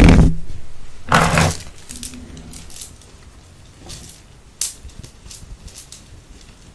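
Close-miked handling of small objects: a loud rustle dies away at the start and a short scraping swish comes about a second in. Then scattered light clicks and taps follow, like keys or coins.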